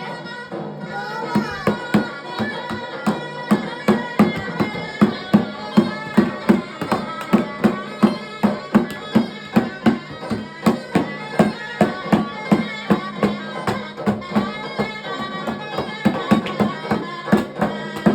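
Davul and zurna folk music: a steady beat of davul bass-drum strokes under the reedy zurna melody, over a held drone.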